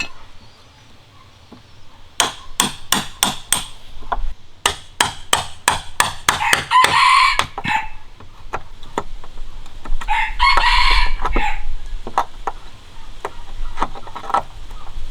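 Hammering on wood, a steady run of blows about three a second, while a rooster crows twice in the middle.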